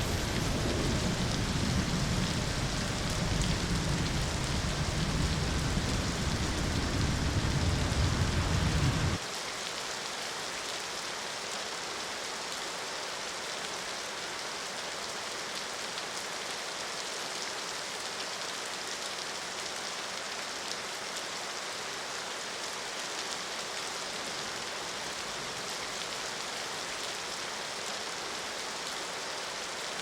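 Steady heavy rain. For the first nine seconds a deep low rumble lies under it, then cuts off suddenly, leaving only the even hiss of the rain.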